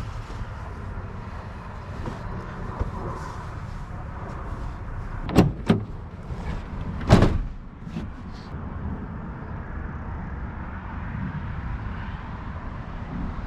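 Truck door clunks: three sharp knocks about five to seven seconds in, the last the loudest, over a steady low rumble.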